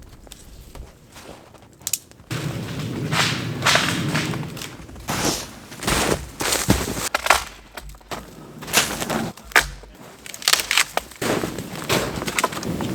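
Dry firewood being snapped and broken: about a dozen sharp cracks and snaps, irregularly spaced, over a steady rushing noise that starts suddenly about two seconds in.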